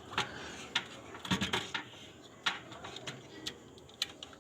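Scattered small clicks and light plastic-and-metal taps, with a short cluster of handling noise about a second and a half in, as a refrigerator thermostat is unhooked and pulled out of its housing.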